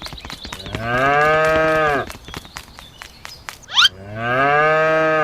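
Cow mooing twice, each call about a second long and dropping in pitch at its end, with rapid clicking underneath.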